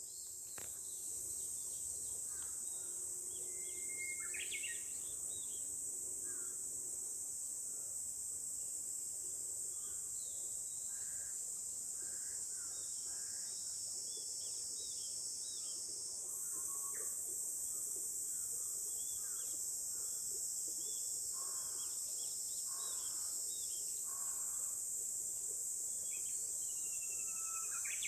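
Japanese bush warbler singing, a held whistle breaking into a quick flourish about four seconds in and again near the end, among scattered short chirps from other birds. A steady high-pitched insect chorus is the loudest sound throughout.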